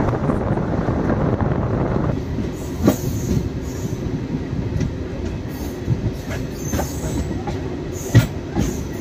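MEMU electric multiple-unit train running into a station, heard from the open doorway: a steady rumble of wheels on rail, with the rushing wind noise dropping away about two seconds in. After that come irregular knocks of the wheels over rail joints and a brief high squeal near the end.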